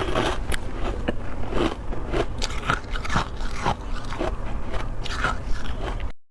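Close-miked biting and chewing of powdery freezer frost: a run of crisp crunches at about two a second. The sound cuts off abruptly just before the end.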